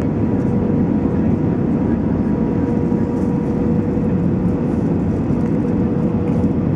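Steady low roar inside the cabin of an Airbus A320-214: its CFM56 engines and the rush of air along the fuselage, with a faint steady hum through it.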